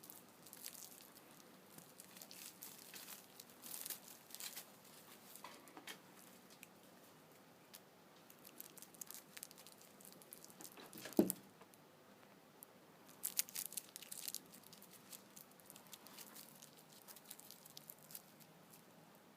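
Faint, scattered scratching, patting and rustling of a cat's paws and claws as it plays with a rope, with one louder knock about eleven seconds in and a run of sharper ticks a couple of seconds later.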